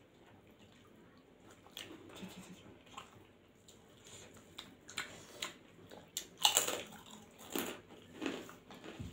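Close-up eating sounds of rice and dal being eaten by hand: chewing and mouth sounds with scattered short clicks and crunches, the loudest about six and a half seconds in.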